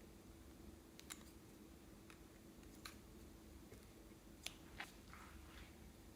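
Near silence over a low steady hum, broken by a few faint sharp clicks and one short soft rustle: small handling sounds of slime being worked.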